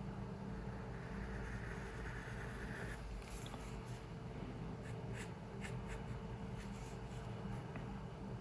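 Pencil drawing on paper: a scratchy stroke for about two seconds, then a run of short light ticks and taps, over a steady low room hum.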